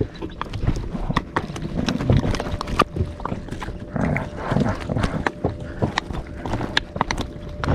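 Irregular clicks and knocks of fishing tackle as a hooked fish is played and reeled in; the fish is pulling hard.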